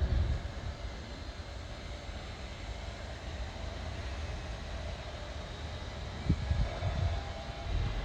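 Steady low rumble under a background hiss, with a few low thumps about six to seven seconds in.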